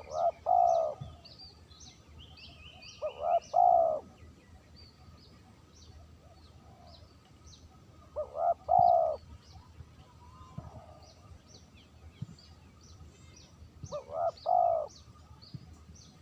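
Spotted dove (terkukur) cooing: four phrases several seconds apart, each a couple of short notes followed by a longer coo. Small birds chirp faintly and high in the background.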